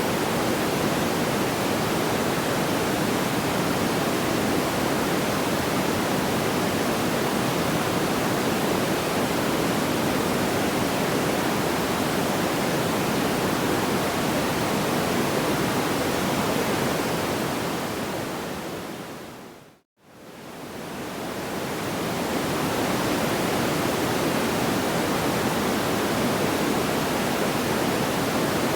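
Steady, even rushing noise like pink noise, with no separate crackles or pops. About eighteen seconds in it fades smoothly down to silence and swells straight back up over a few seconds, the seam where a looped sleep-sound track restarts.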